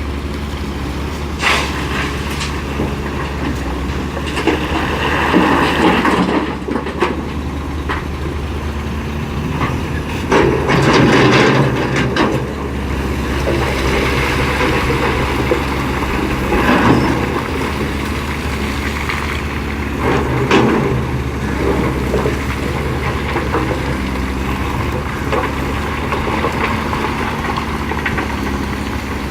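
Hitachi EX450LC-5 excavator's diesel engine running steadily at work loading limestone into a dump truck. Several times the sound swells into a noisy rush lasting a second or two.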